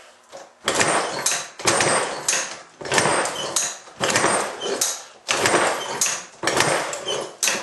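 Small antique Iron Horse single-cylinder engine being kicked over again and again, about once a second, seven strokes in a row, without catching; the owner suspects weak spark.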